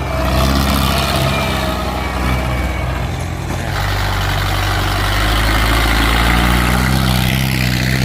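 Ford 6610 farm tractor's diesel engine running loud and steady under load, its note growing a little louder about five seconds in.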